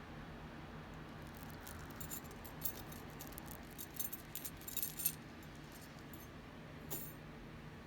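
Metal jewelry, necklace chains and pendants, clinking and jingling lightly as it is handled, in a cluster of small chinks a couple of seconds in and one more near the end.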